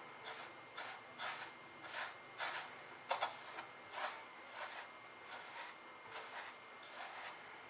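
Paintbrush strokes rubbing across the painting surface, about two short scratchy strokes a second, uneven in strength.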